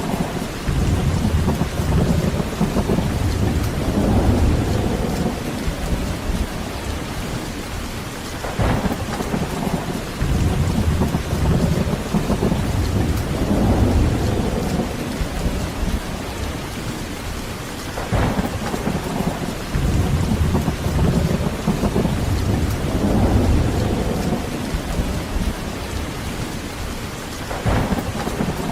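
Heavy rain falling steadily, with thunder rolling several times: each roll begins with a sharp crack about every nine or ten seconds, then rumbles low for several seconds before fading back under the rain.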